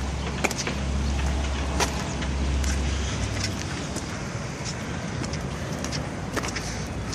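Low rumble of road traffic that swells and fades, with scattered sharp clicks and taps.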